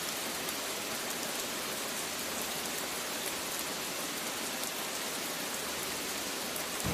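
Steady rain falling on a surface: an even hiss flecked with fine drop ticks.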